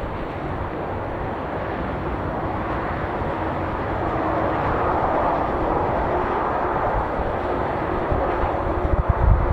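Jet airliner's engines passing close by, a steady rushing roar that swells to its loudest about halfway through and then eases slightly. Gusts of wind buffet the microphone at the very end.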